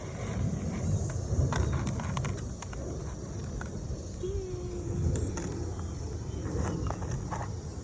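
Bird seed rustling and clicking on a tray as a peanut-butter-coated cardboard tube is rolled through it, with scattered light clicks over a low rumble.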